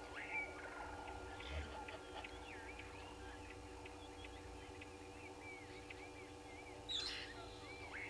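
Wild birds calling: a run of short whistled and chirped notes, with louder, harsher calls near the start and about seven seconds in. A steady low hum runs underneath.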